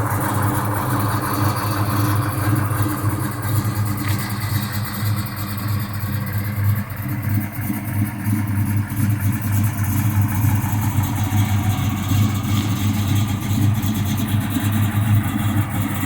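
1969 Chevelle's built 350 V8 idling roughly, a steady deep running sound with a choppy, uneven loudness.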